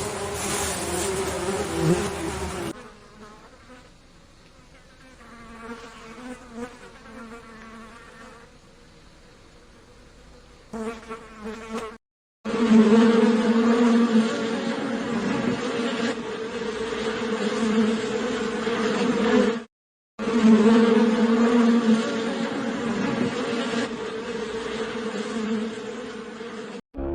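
Flying insect buzzing: a steady wing hum with a strong low drone and its overtone, in several segments that cut in and out abruptly, quieter for a while before it comes back loud.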